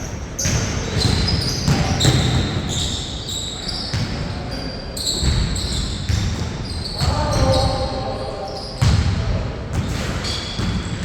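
Basketball being bounced on a hard court: repeated thuds throughout, among short high squeaks like sneakers on the floor.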